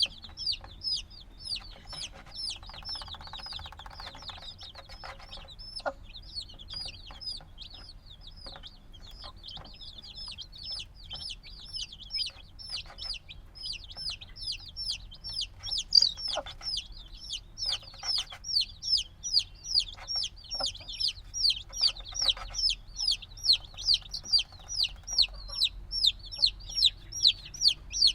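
A group of baby chicks peeping nonstop: short, high chirps that slide downward, several a second, overlapping from many birds, getting louder toward the end. Faint clicking runs underneath.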